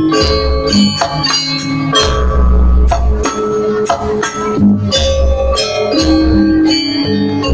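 Gamelan-style accompaniment for a Balinese janger dance: struck metallophones ringing over a steady beat of drums and jingling percussion, with heavy low bass pulses.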